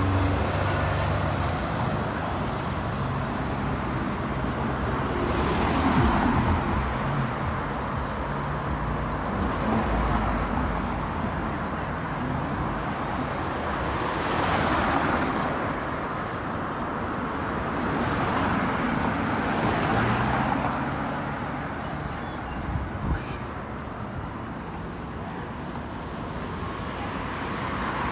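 Road traffic: cars and buses pass one after another, each rising and fading, over a steady low engine hum.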